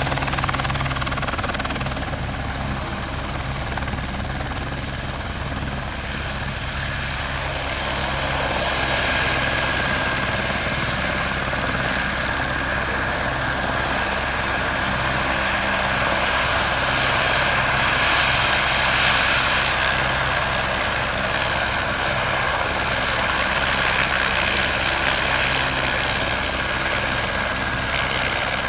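Single-turbine helicopter running steadily: a low, even rotor beat under a high, thin turbine whine that dips slightly in pitch about seven seconds in. The loudness swells a little about two thirds of the way through.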